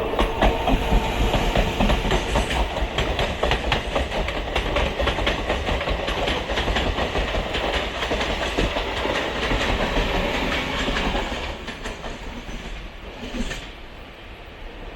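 Passenger train running on the rails, steel wheels clattering rapidly over the track; the clatter eases off and grows quieter about twelve seconds in.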